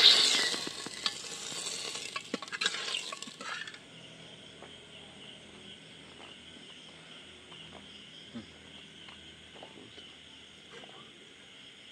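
Chicken curry sizzling in a pressure cooker while a ladle stirs it, with clicks and scrapes of the ladle against the pot. About four seconds in this cuts off, leaving a faint steady high chorus of night insects with a few soft knocks.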